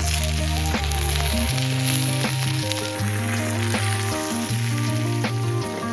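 Food frying with a steady sizzle, under background music with sustained bass notes and a regular beat.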